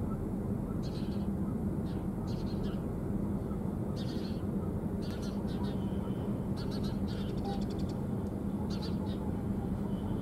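Small birds chirping, short high calls every second or so, over a steady low hum.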